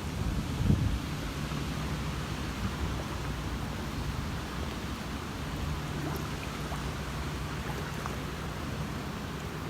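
Steady hurricane wind and rain noise, with a low steady hum underneath.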